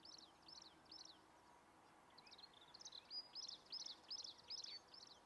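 A small bird calling a repeated short, high note that falls in pitch, about three a second. The calls pause for about a second shortly after the start and then resume, over faint outdoor background noise.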